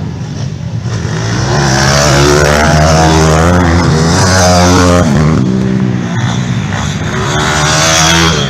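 Small-displacement pit bike and moped engines revving hard, the pitch rising and falling as they accelerate and ease off, loudest in the middle.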